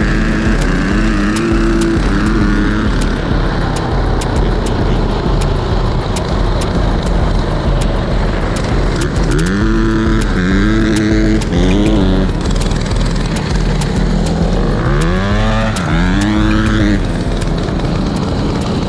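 Dirt bike engine under way, revving up and easing off several times so that its pitch rises and falls in swells, over a steady loud running noise.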